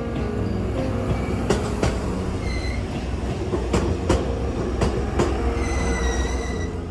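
A train rolling along the track, its wheels clacking in pairs over rail joints, with a brief high wheel squeal about two and a half seconds in and a longer one near the end.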